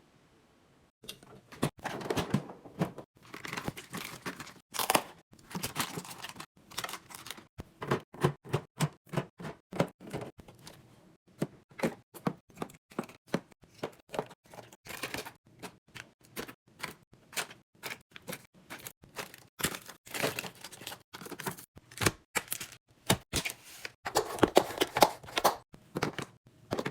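Groceries being handled and set into a refrigerator: a busy run of irregular clicks and knocks of containers on shelves, with plastic packaging crinkling, starting about a second in.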